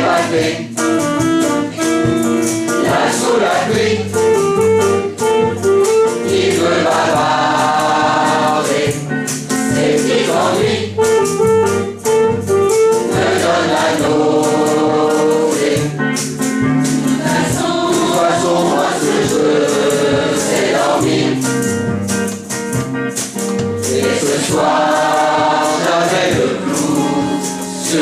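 A choir singing a song with a steady rhythmic shaker-like percussion accompaniment, full and continuous throughout.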